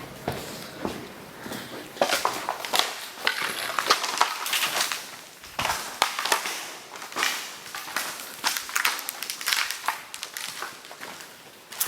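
Footsteps crunching through deep snow, an irregular run of crunches from more than one walker.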